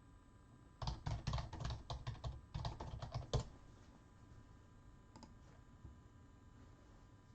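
Quick typing on a computer keyboard for about two and a half seconds, ending with one harder keystroke, then a single faint click a couple of seconds later.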